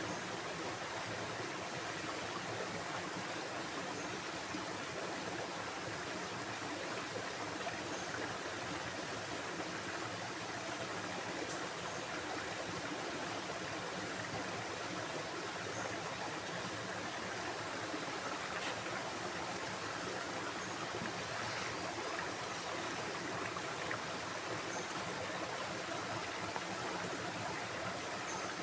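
Water of a stream flowing steadily, an even rushing babble.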